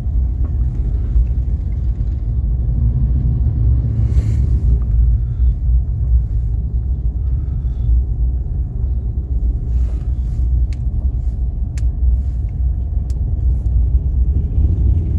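Steady low rumble of a vehicle driving, heard from inside the cabin: engine and road noise, with a few faint ticks in the second half.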